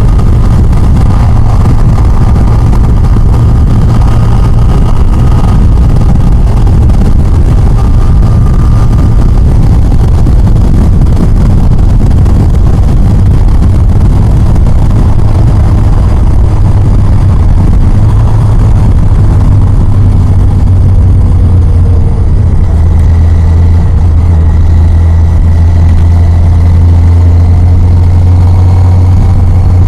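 Loud, steady wind rush on the rider's microphone over the low drone of a Yamaha FJR1300's inline-four engine cruising on the freeway.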